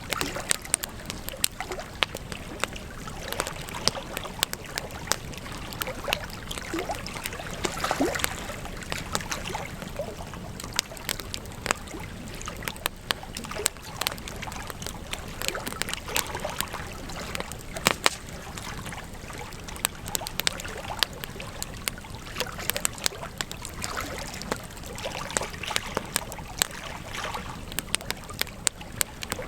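Wood campfire burning, with frequent sharp, irregular crackles and pops over a steady low hiss.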